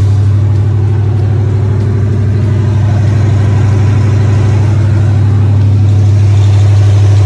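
A vehicle engine running loudly and steadily with an even, pulsing low note. It cuts in suddenly and stops abruptly.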